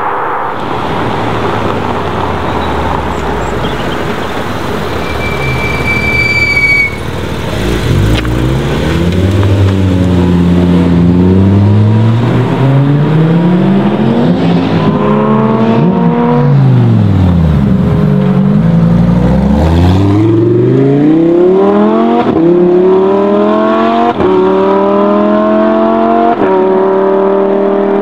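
Sports car engines accelerating hard one after another, revving high: a Mercedes-AMG GT R's V8, then, after a cut about a quarter of the way in, a Porsche 718 Cayman GT4 RS's flat-six. In the last third the engine pitch climbs and drops back about three times as the car upshifts through the gears.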